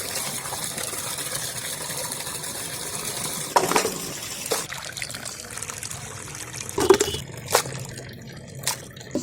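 Water running and splashing while raw mutton is washed with turmeric in a vessel: a steady flow of water at first, then a few knocks and splashes of meat and water against the pot.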